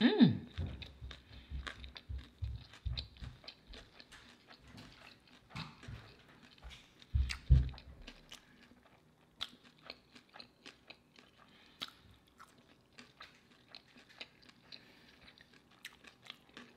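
Close-miked biting and chewing of a fish sandwich: heavier chewing thumps through the first eight seconds, then softer, wet mouth clicks.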